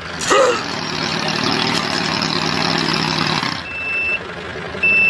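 A vehicle engine runs with a dense rattle for about three and a half seconds, then stops. Two high steady beeps follow about a second apart, like a reversing alarm.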